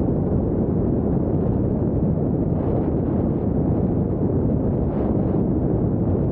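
Wind buffeting the microphone: a steady low rumbling noise with no distinct tones.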